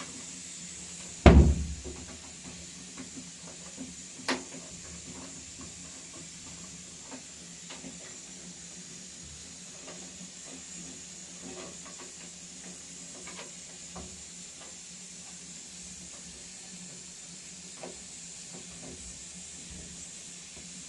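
A heavy thump about a second in and a sharper knock a few seconds later, then scattered light knocks and clicks, over a steady hiss.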